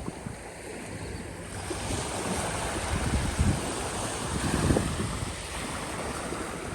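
Waves washing onto a bay beach in a steady hiss, with wind gusting against the microphone in low rumbles about halfway through and again near the end.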